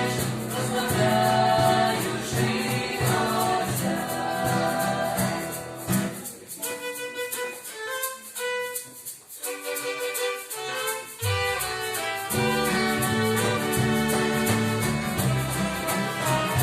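A band plays music with violin and singing. The bass and low parts drop out for a few seconds around the middle, leaving only the higher melody, then come back in.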